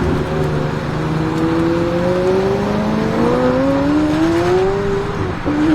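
McLaren 765LT Spider's twin-turbo V8 accelerating, its exhaust note rising steadily in pitch for about five seconds, then dropping abruptly near the end.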